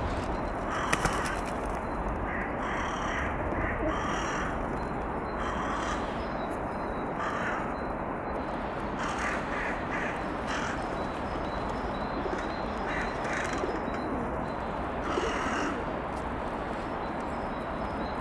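Birds calling outdoors: a series of short, harsh, caw-like calls repeated every second or two over a steady background hiss, with a sharp click about a second in.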